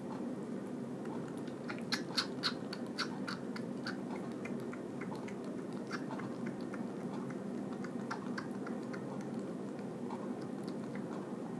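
Kitten suckling milk from a bottle nipple: wet smacking and sucking clicks, thickest about two to three seconds in, then sparser, over a steady low hum.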